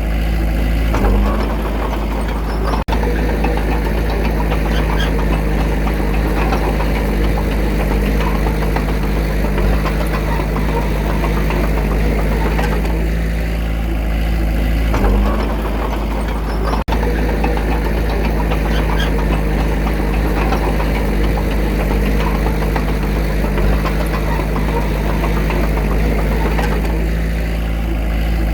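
Komatsu D21A small crawler bulldozer's diesel engine running steadily while working, its pitch shifting briefly about a second in and again about fifteen seconds in as the load changes.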